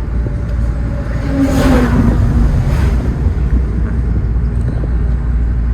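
Car engine and road noise heard from inside the cabin of a moving car, a steady low rumble with a brief swell of noise about a second and a half in.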